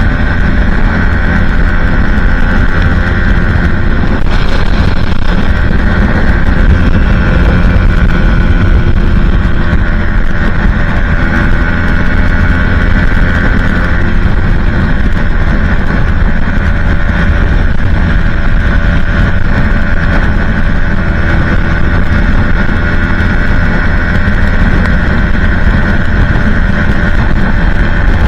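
Aprilia Tuono 125's single-cylinder four-stroke engine, fitted with a Leo Vince exhaust and no catalytic converter, running steadily at high revs at motorway speed. Heavy wind noise on the microphone.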